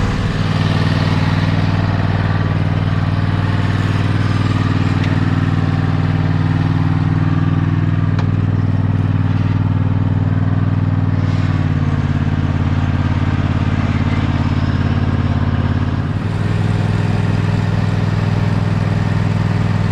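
Riding lawn mower engine running steadily after being started, shifting speed slightly twice partway through.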